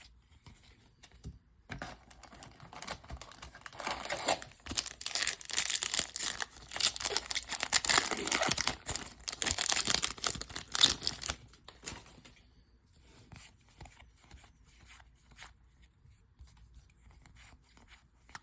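Crinkly wrapper of a 2021 Topps Series 2 baseball card pack being torn open and crumpled, a dense rustle for about nine seconds. It dies away about eleven seconds in to faint scattered ticks.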